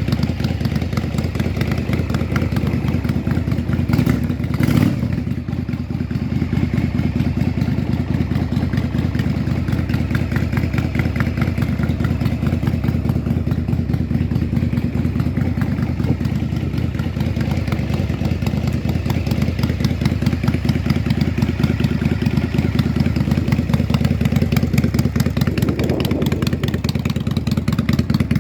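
Yamaha DragStar 400 Classic's air-cooled V-twin engine idling steadily, with a short burst of noise about four seconds in.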